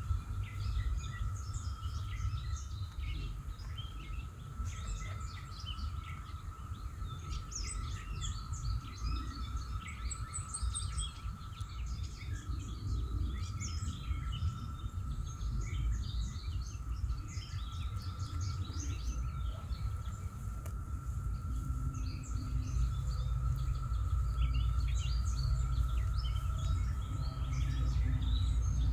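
Many small songbirds chirping and calling throughout, over a steady high-pitched hum and a low rumble that swells near the end.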